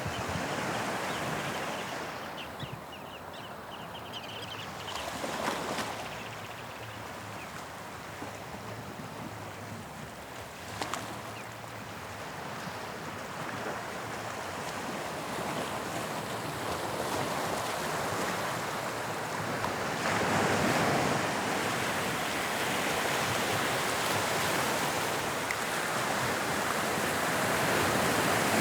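Sea waves breaking and washing on the shore, a continuous surf noise that swells louder about twenty seconds in and again near the end.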